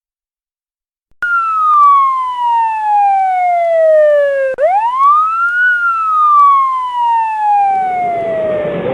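Police car siren wailing: a tone that falls slowly, sweeps quickly back up about halfway through, then falls slowly again. A rushing noise comes in under it near the end.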